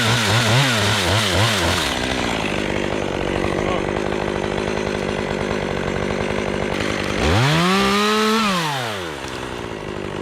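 A chainsaw cutting through Leyland cypress wood. Its engine rises and falls in quick pulses of throttle, then runs steadily under load. About seven seconds in it revs up once, then falls back to a lower idle near the end.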